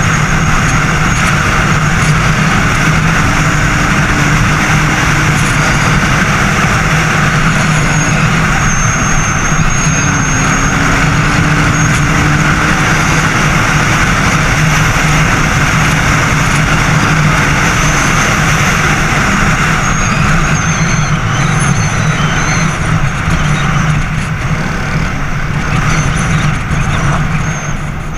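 Racer Panther 300 enduro motorcycle engine running steadily under way. The level falls away at the very end.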